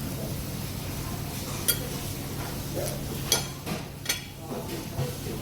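A few sharp clinks, about three, over a steady low background hum.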